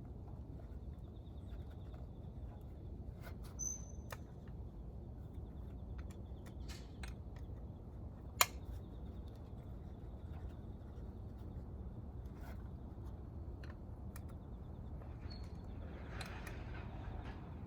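Light clicks and taps of tools and metal engine parts being handled during a motorcycle engine teardown, with one sharper click about eight seconds in, over a steady low hum.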